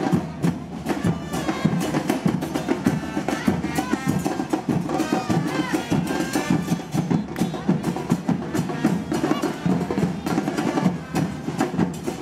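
Carnival band music driven by drums and percussion, a fast, dense beat, with voices mixed in.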